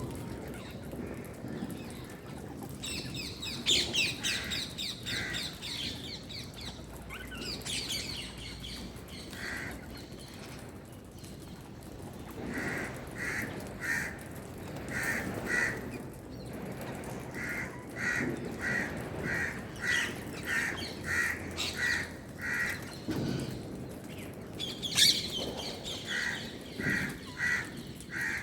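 Birds calling: a rose-ringed parakeet's shrill, falling screeches a few seconds in and again near the end, and in between a long run of short, evenly spaced calls, about two a second.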